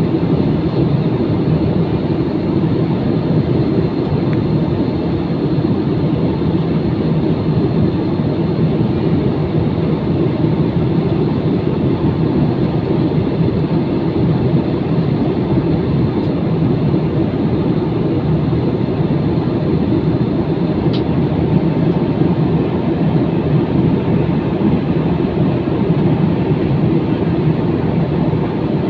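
Steady cabin noise of a jet airliner in flight: engine and airflow noise, even and unbroken, heaviest in the low range.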